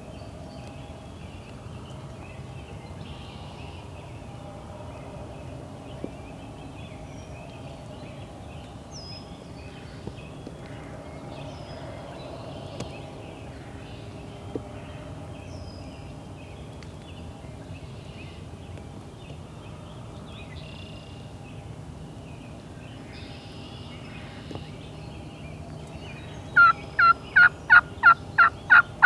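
Faint background with scattered distant bird chirps, then, near the end, a loud run of sharp, evenly spaced wild turkey yelps, about three to four a second.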